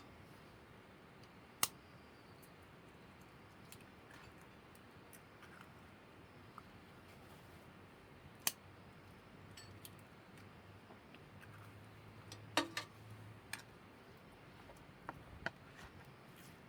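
Sparse sharp clicks and knocks, a few seconds apart, with a short cluster of them about two-thirds of the way through.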